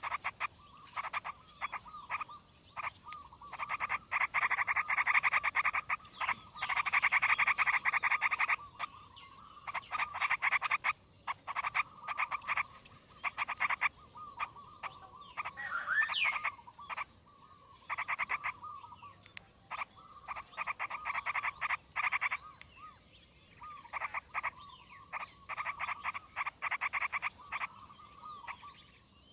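Frogs croaking in repeated bouts of rapid, rattling pulses, each bout lasting a second or two with short pauses between. A single rising chirp is heard about halfway through.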